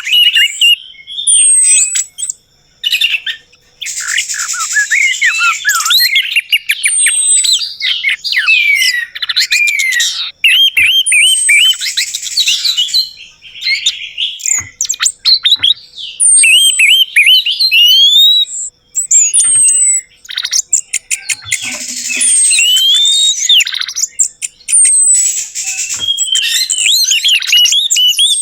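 Orange-headed thrush singing a loud, continuous song of rapid, varied whistled phrases, full of quick sweeping notes, with only a few brief pauses.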